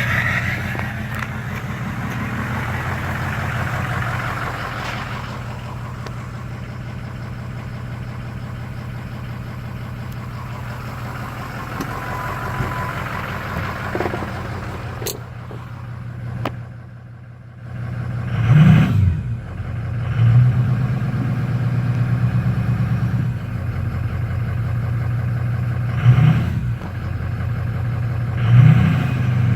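Car engine idling, its sound sagging once about halfway through, then blipped up in revs briefly four times. The owner asks whether this is a misfire causing a rough idle.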